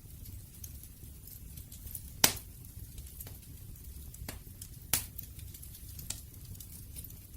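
Campfire burning: a low steady rumble of flames with sharp wood crackles and pops at uneven intervals, the loudest two a little over two seconds in and near five seconds in.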